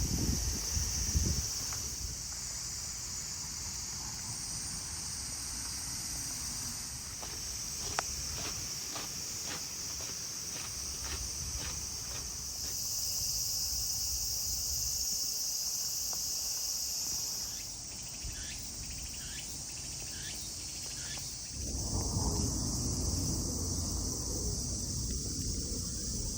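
Cicadas buzzing in a loud steady high-pitched chorus. There are two short runs of quick ticks in the middle, and a low rumbling noise joins in near the end.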